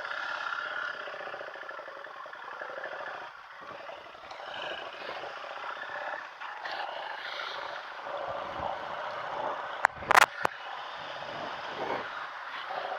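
Motorcycle running along at road speed, its engine note mixed with wind and road noise, with a couple of sharp knocks about ten seconds in.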